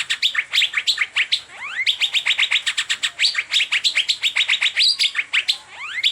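Asian fairy-bluebird (cucak biru) song: quick rising whistled sweeps that run into fast, even runs of high chirping notes, about eight a second. The phrase breaks briefly about two seconds in and again near the end, each time starting over with a rising sweep.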